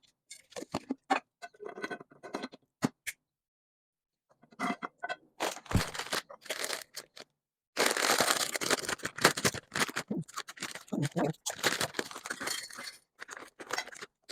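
Kitchen items and packaging being handled. First a run of sharp clicks and taps, then a short silence, then from about eight seconds a dense crinkling and scraping that lasts several seconds.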